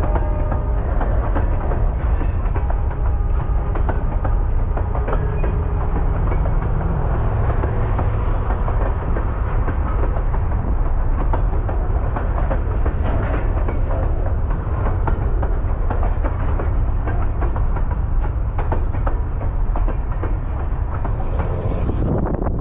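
Baldwin-Westinghouse electric steeplecab locomotive and railcars rolling on track: a steady heavy rumble with many small irregular clicks from the wheels and rails.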